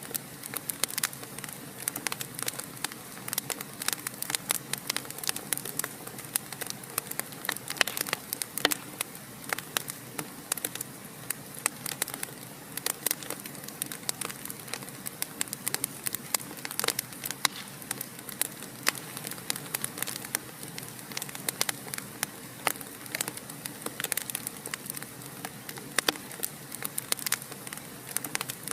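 Wood fire burning in a fireplace, crackling with many irregular sharp pops and snaps over a steady soft hiss.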